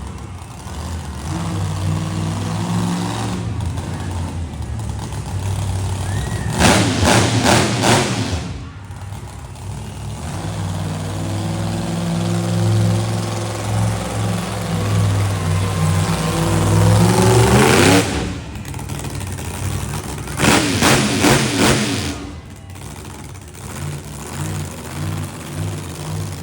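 A large engine running with a steady low note and revving up several times, the pitch climbing in each surge.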